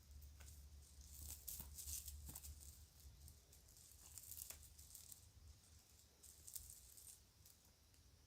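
Faint crinkling and light clicking of a plastic bag and children's toy jewelry being handled, busiest in the first half and tailing off toward the end.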